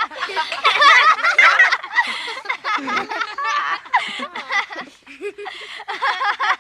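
A group of people laughing together, many voices overlapping. The laughter is loudest about a second in, thins out briefly a little before five seconds, then picks up again.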